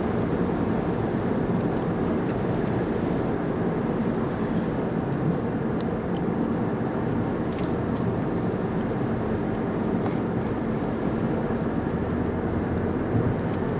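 Steady low rumble of a moving vehicle, unchanging throughout, with no sudden events.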